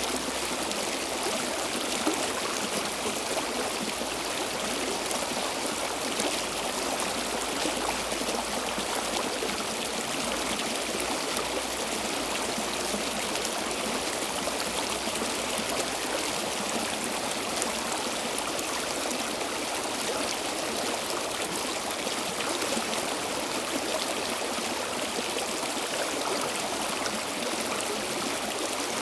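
Stream water flowing steadily over rocks, a continuous rushing and trickling hiss.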